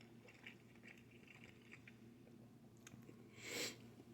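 Faint chewing of pizza, with small wet mouth clicks, and a short rush of noise about three and a half seconds in.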